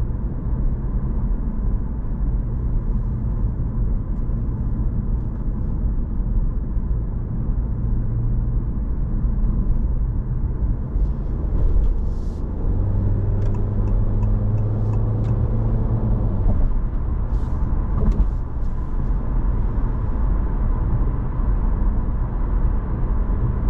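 Steady road and engine noise inside a Honda ZR-V's cabin while driving, a low rumble with a deeper hum that comes in for a few seconds midway.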